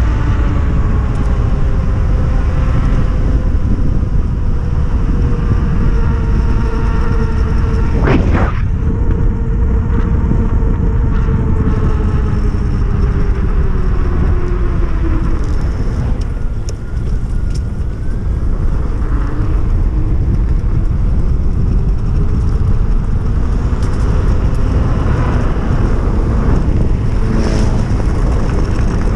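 Electric dirt bike's 3000 W hub motor and Fardriver controller whining with road speed. The pitch falls as the bike slows to about halfway, then rises as it speeds up again, over heavy wind rumble on the microphone. A sharp knock comes about eight seconds in.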